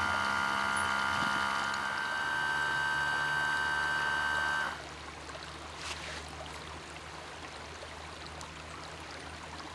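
Portable espresso maker running with a steady machine whine and hum while it pushes out a shot of espresso; it cuts off suddenly about five seconds in, leaving only a faint hiss.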